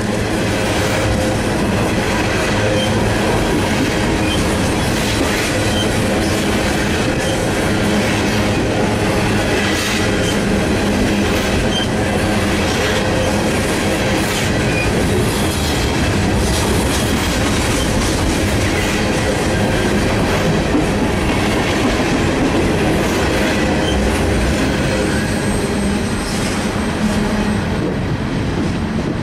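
Freight train of open-top coal hoppers and gondolas rolling past, steel wheels clattering over the rail joints with some wheel squeal. Near the end a thin high squeal sounds, the last car goes by and the sound starts to ease.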